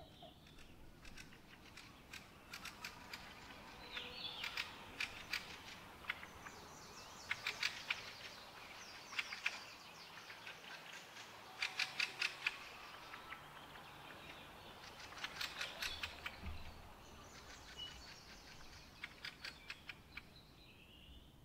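A songbird singing in short phrases of rapid, clicking, chattering notes, one phrase every few seconds.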